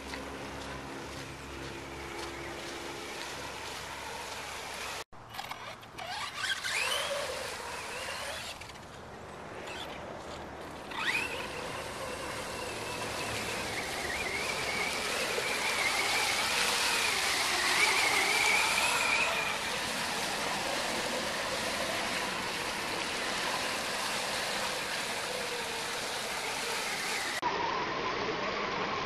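Electric motor of a Helion Invictus RC monster truck whining, its pitch rising and falling as it drives through mud puddles, over a steady hiss.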